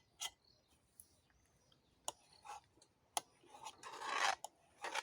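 A few light clicks and knocks, with one louder rasping scrape lasting about a second, around four seconds in: tableware and cutlery being handled at a meal.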